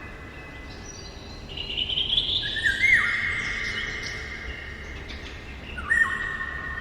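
Eurasian golden oriole singing short whistled phrases, one about a second and a half in and another near the end. Each note trails off in a long echo.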